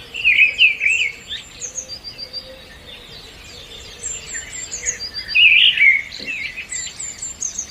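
Several birds chirping and whistling together in a dense chorus, with short repeated high notes and louder warbled phrases about half a second in and again near the six-second mark.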